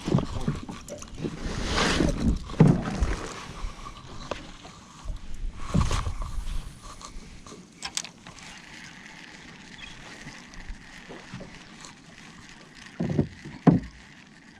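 Water sloshing against a boat's hull, with irregular surges and a few knocks and bumps, strongest about two seconds in, around six seconds, and again near the end.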